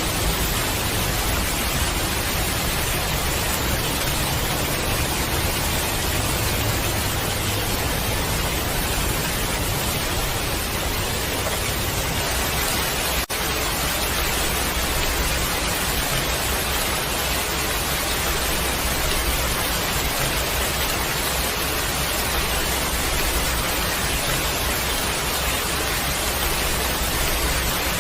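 Steady heavy rain: a dense, even hiss with a low rumble beneath it, briefly cut off for an instant about halfway through.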